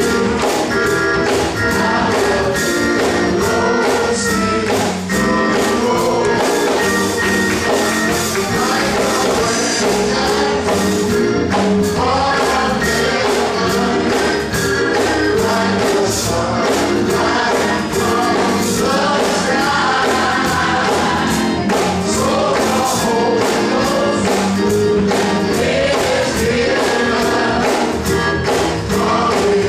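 Gospel choir singing with band accompaniment, a tambourine and drums keeping a steady beat.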